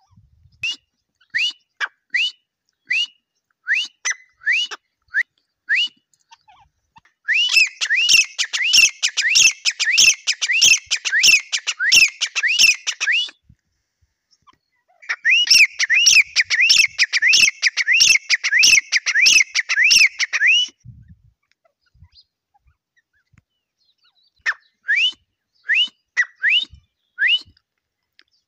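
Grey francolin (teetar) calling: a string of short, rising notes, then two long bouts of rapid repeated notes, each lasting about six seconds, then spaced single notes again near the end.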